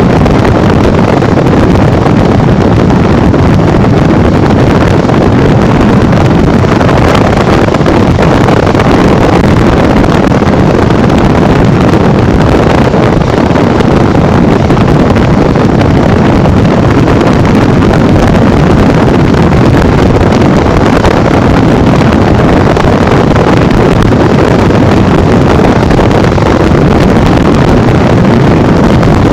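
Steady, loud wind buffeting the microphone while riding a Honda Bros 150 motorcycle at speed, mixed with engine and road noise.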